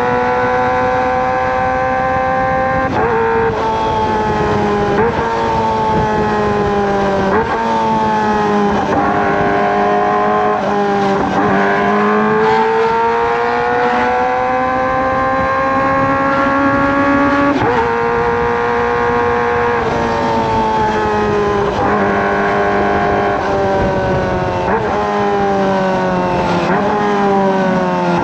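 Kawasaki ZX-25R's 250 cc inline-four running through a Racefit Slash aftermarket exhaust, held high in the rev range while riding. The high-pitched engine note climbs steadily and then drops sharply at each gear change, about a dozen times, with a couple of slower falls as it eases off.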